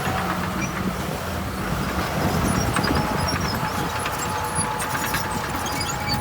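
Heavy earthmoving machinery running: a steady diesel engine rumble, with a thin steady whine joining it about halfway and light scattered rattles.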